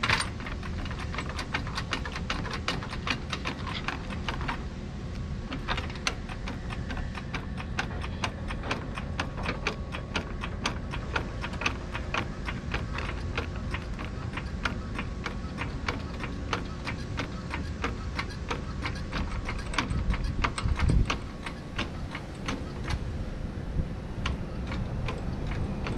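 Rapid, uneven clicking over a steady low rumble, with a louder thump about 21 seconds in.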